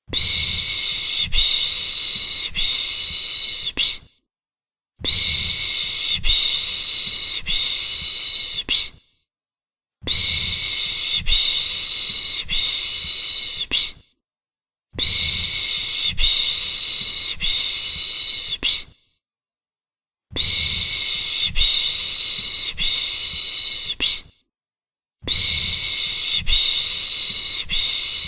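A shushing 'pış pış' sound made to soothe a baby: a loud, hissy shhh held for about four seconds, then about a second of silence, repeated evenly six times as a loop.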